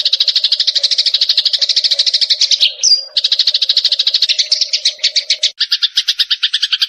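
Recorded Eurasian tree sparrow lure call: a fast, loud chattering trill of about a dozen notes a second. It breaks off briefly about three seconds in with one sharp note, then resumes and takes on a lower second tone near the end.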